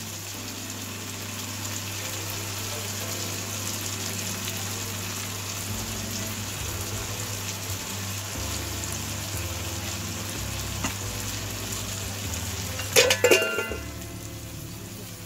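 Chopped vegetables sizzling steadily in hot oil in a wok. A brief clatter comes about thirteen seconds in.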